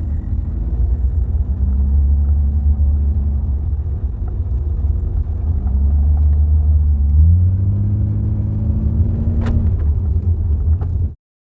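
Car driving on a rough road, heard from the passenger footwell inside a Toyota Mark II: a steady low road rumble with engine drone, the engine pitch rising about seven seconds in. A single sharp knock near the end, which may be the intermittent front-left suspension knock on bumps that persists even though the ball joints, struts and bushings are new.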